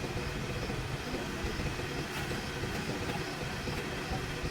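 A steady low rumble of a running vehicle.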